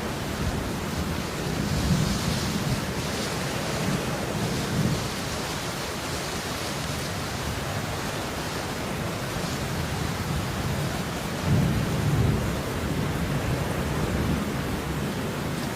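Steady rain falling, an even hiss. Low rumbles swell under it about two seconds in and again about twelve seconds in.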